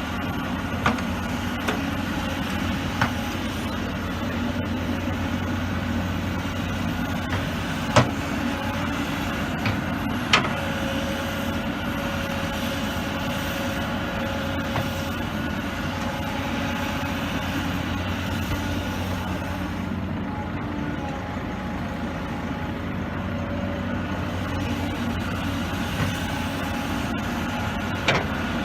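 Kobelco 235SR hydraulic excavator's diesel engine running steadily under work, with a steady whine from about eleven seconds in and a few sharp knocks, the loudest about eight and ten seconds in.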